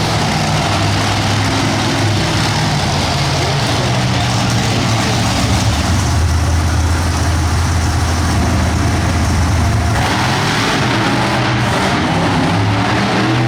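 Monster truck engine running loud and steady. For a few seconds in the middle its pitch drops lower, then it comes back up.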